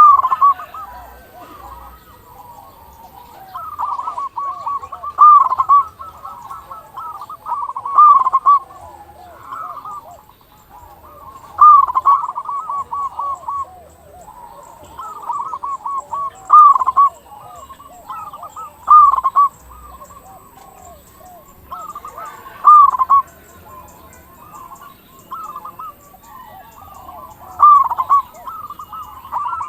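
Zebra doves (perkutut) cooing: trilled, bubbling coo phrases that repeat every two to four seconds and sometimes overlap.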